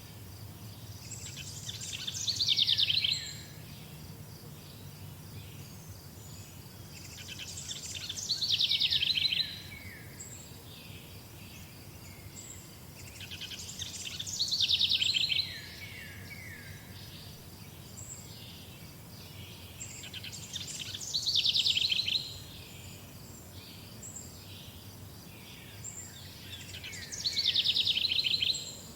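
A songbird singing the same phrase five times, about every six seconds: each phrase is a fast trill of about two seconds that falls in pitch and grows louder before stopping abruptly. Faint high chirps carry on between the songs.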